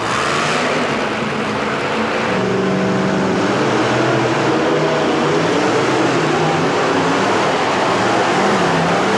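Supercharged, alcohol-injected monster truck engines running loud, the revs rising and falling.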